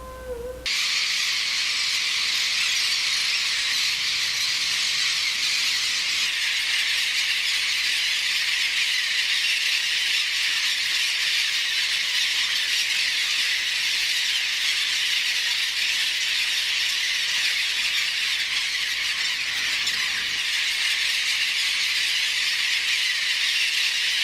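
Steady, dense din of a nesting bird colony, many birds calling and squealing at once. It starts abruptly about a second in.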